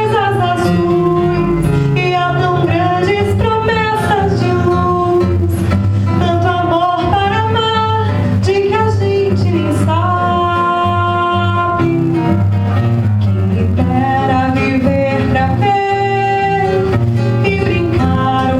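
Music: a nylon-string acoustic guitar (violão) playing chords while a woman's voice carries the melody, with some long held notes partway through.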